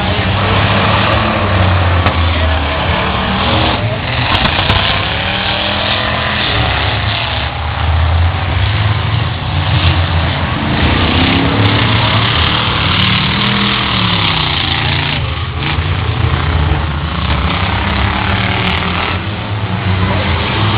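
Racing truck engines running hard, revving up and down, over a constant rush of noise.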